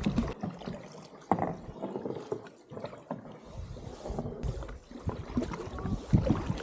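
Canoe paddles dipping and pulling through the water in irregular strokes, with one sharp knock about a second in.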